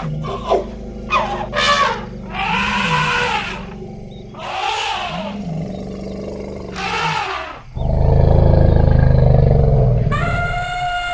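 Elephants trumpeting in a series of short calls over a steady low rumble, then a loud deep roar about eight seconds in, and near the end a long high trumpet that slides down in pitch.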